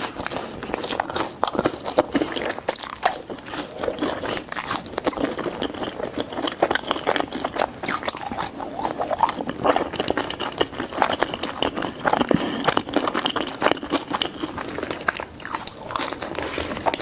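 A person biting and chewing pizza close to the microphone, with crunching bites and a dense run of small irregular mouth clicks.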